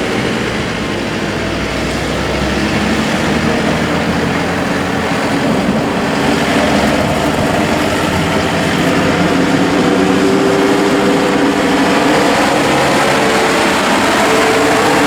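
Four-cylinder turbo diesel engine of a New Holland T4.75 tractor running steadily, its pitch drifting slightly.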